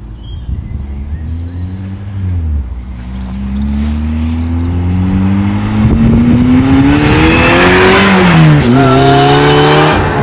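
Supercharged 2.4-litre Honda K24 four-cylinder engine of an Ariel Nomad accelerating hard, its revs climbing with a brief dip about two and a half seconds in. It grows loudest as the car drives past near the end, where the pitch drops again.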